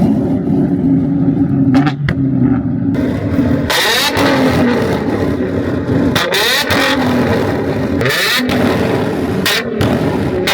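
Nissan 350Z's V6 engine revved hard again and again, its pitch rising and falling, with short sharp cracks from the exhaust about four times. The revving is meant to make the exhaust spit flames.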